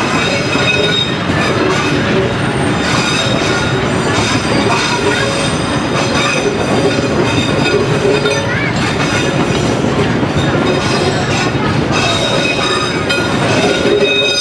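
Train rolling past at close range: a loud, steady rumble of steel wheels on rail, with high metallic squealing tones from the wheels.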